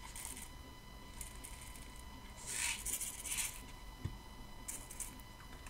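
Dry buckwheat grains being poured into a small plastic Kinder Surprise egg capsule: a faint grainy hiss, strongest for about a second starting two and a half seconds in, with a shorter spell near the end.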